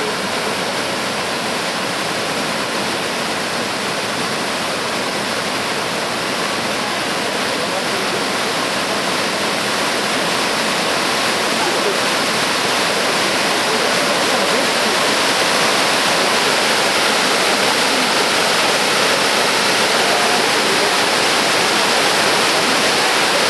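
Yudaki waterfall, a cascade of water sliding and crashing down a long rock face, giving a steady, loud rush that grows slightly louder toward the end.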